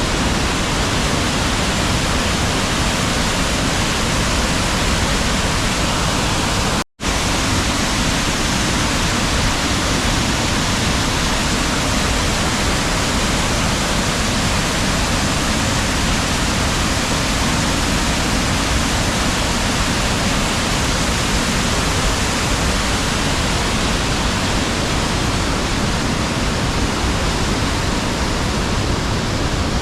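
Waterfall on a small river: a steady, dense rush of falling water. It cuts out completely for a split second about seven seconds in.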